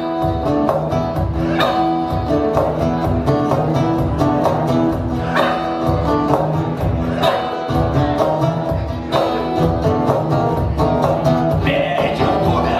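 Acoustic guitar strummed in a steady rhythm over a beat, playing an instrumental passage between sung verses.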